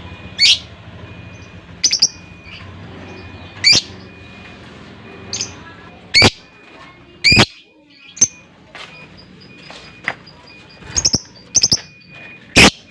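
Lovebird giving short, sharp, shrill calls, about a dozen at irregular intervals of a second or two, the loudest near the end.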